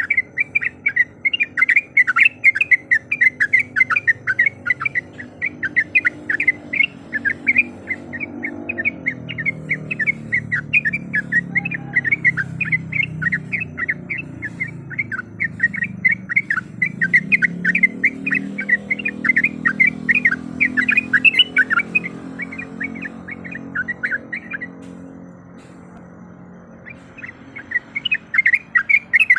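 Yellow-vented bulbul (trucuk) singing a rapid, unbroken run of short chirps, which stops for a couple of seconds near the end and then starts again. Underneath, a low rumble swells and fades through the middle.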